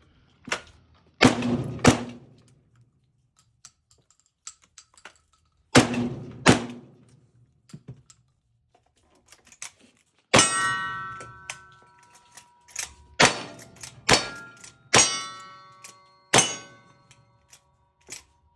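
Cowboy action shooting: two pairs of gunshots, then from about ten seconds in a quicker string of shots. Each of these later shots is followed by the ring of a hit steel target.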